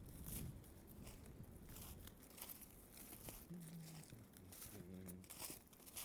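Footsteps in boots crunching over the forest floor while walking uphill, a crunch about every half second. Two brief low hums from the walker come in the middle.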